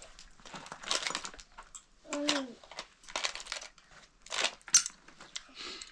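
Crinkling, rustling noise in several separate bursts, like something being crumpled or handled, with one short voice-like sound that falls in pitch about two seconds in.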